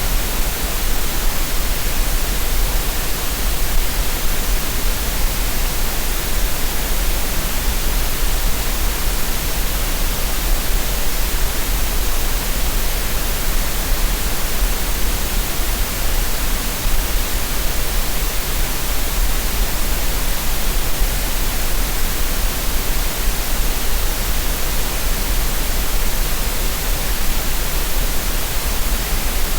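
Steady synthetic green noise for relaxation and tinnitus masking: an even, unchanging hiss with a deep rumble underneath.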